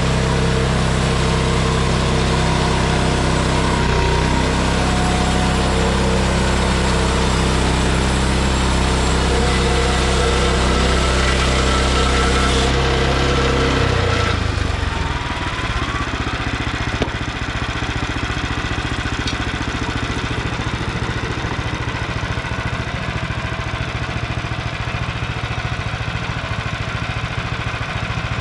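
Small gasoline engine of a Frontier OS23 bandsaw sawmill running steadily at speed, then dropping to a lower, rougher running, like idle, about halfway through.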